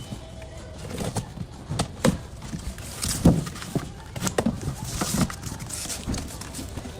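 Irregular knocks and thumps with brief bursts of rustling, from handling cardboard boxes of soccer balls during unpacking.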